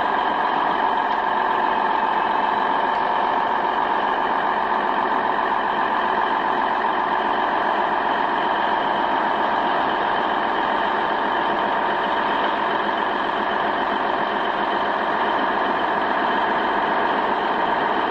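Heavy vehicle engine running steadily at constant revs, a loud even drone with a strong steady whine.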